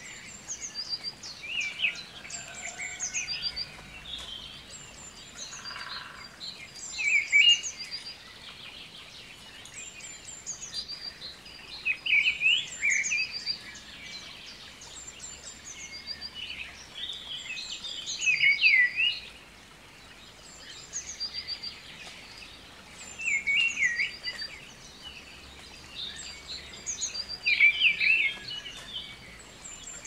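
Birds chirping and singing, short phrases of high chirps and trills coming in clusters every few seconds over a faint steady background hiss.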